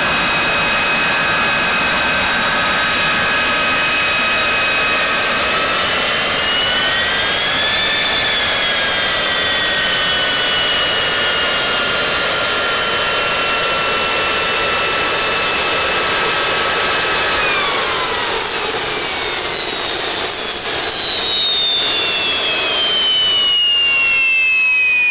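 L-39 Albatros jet's Ivchenko AI-25TL turbofan running with a steady high whine that swells up in pitch and back about eight seconds in. From about eighteen seconds on the whine falls steadily in pitch as the engine spools down.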